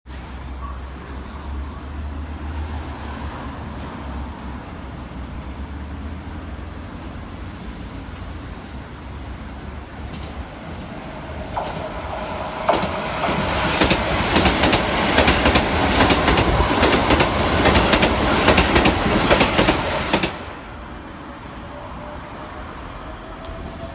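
Electric train passing out of view, its wheels clattering over the rail joints loudly for about eight seconds from just before halfway, then cutting off sharply. Near the end a faint rising whine as another train approaches.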